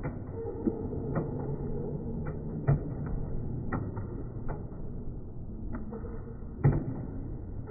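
Irregular sharp knocks and thumps, roughly one every half second to second, the loudest a little before the end, over a steady low background noise.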